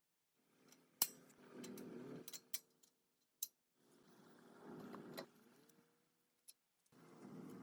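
Three bursts of a small motor running, each a couple of seconds long, with sharp metallic clicks and taps around them, the loudest about a second in.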